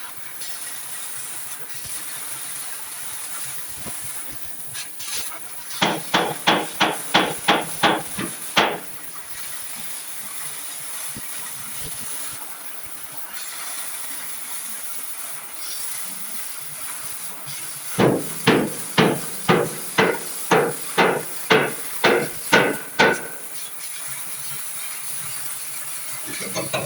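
Hammer blows on car-body sheet steel during rust repair: two quick runs of about ten to a dozen sharp strikes each, roughly three to four a second, with a pause between.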